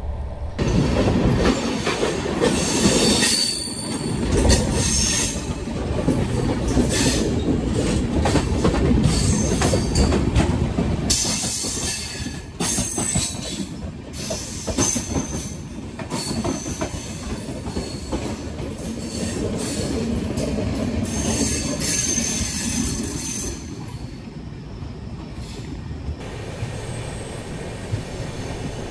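Passenger express train running on the rails: a steady rumble with clickety-clack over the joints, and the wheels squealing high-pitched several times. It eases off and is quieter for the last few seconds.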